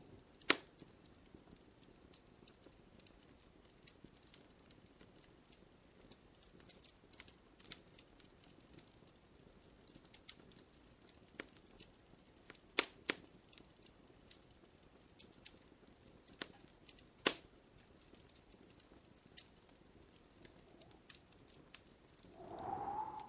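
Wood fire crackling in a fireplace: irregular sharp pops and snaps over a low hiss, the loudest about half a second in, around 13 seconds and around 17 seconds. A brief whistling hiss comes near the end.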